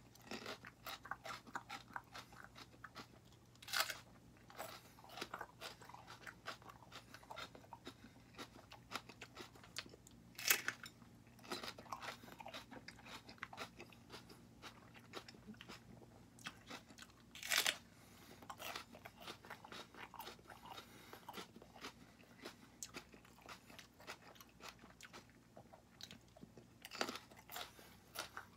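A person chewing raw serrano peppers with a crisp, wet crunching, with a few louder crunches every several seconds.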